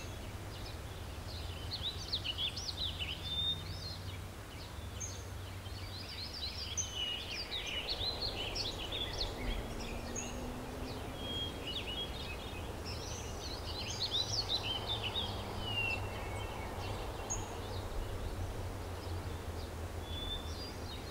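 Several birds chirping and singing in short, overlapping calls over a steady low background rumble.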